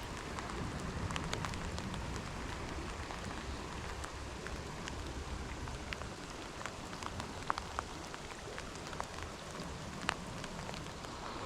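Steady rush of running creek water with many small, irregular ticks and drips scattered through it.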